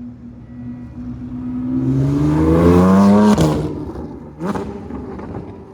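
A car engine revving up hard, its pitch climbing steeply for about a second and a half and loudest just before it cuts off about three seconds in, then a short blip of throttle.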